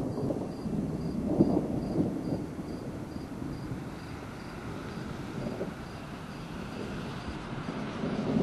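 Outdoor ambience: a low, uneven rumbling noise with louder patches, under an insect chirping high and regularly about three times a second that fades out about halfway through.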